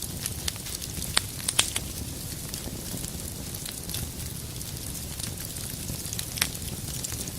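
Wood fire burning in a fireplace: a steady low rumble of the flames with scattered crackles and sharp pops. The loudest pops come in a quick cluster about a second and a half in and once more near the end.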